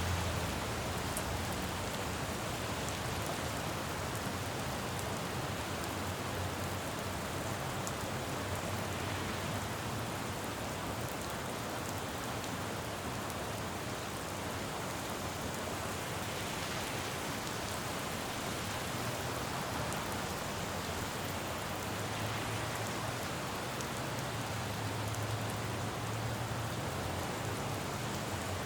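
Steady rain falling on a city road, with a low traffic rumble underneath that swells about two-thirds of the way through.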